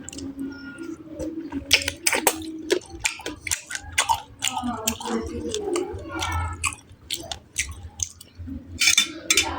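Close-miked chewing, with wet mouth clicks and lip smacks coming irregularly throughout.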